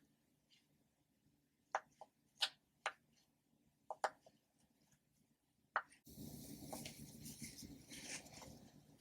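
Plastic ocean-animal popper toys being squeezed, giving about seven short, sharp pops at irregular intervals. From about six seconds in, a steady rustling, scraping handling noise takes over.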